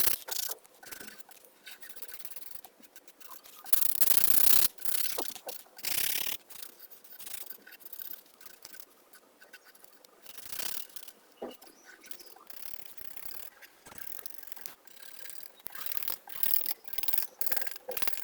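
Coloring strokes rubbing on paper: irregular short scratchy strokes with brief pauses between them, and a longer, louder stroke about four seconds in.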